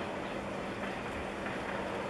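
Freight train of flatcars carrying military trucks rolling past at a distance: a steady rolling noise of wheels on track with faint clicks.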